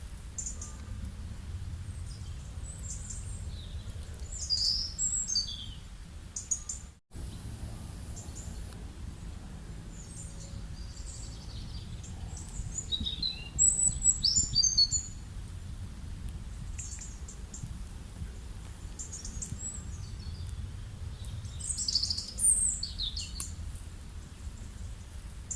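Birds chirping and calling in three short clusters of quick high notes over a steady low background rumble. The sound cuts out briefly about seven seconds in.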